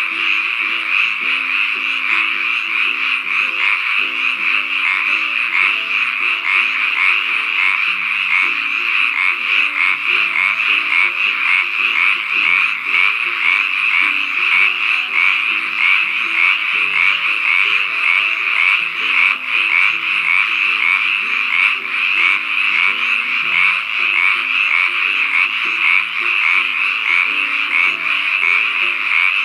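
A dense chorus of many frogs calling at once: a continuous, fast trilling that never lets up, over soft background music.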